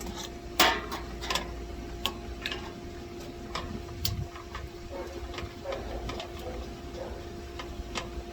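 Hand tools clicking and clinking irregularly against the metal of an air conditioner condenser during fan motor work, over a steady hum. The sharpest click comes about half a second in.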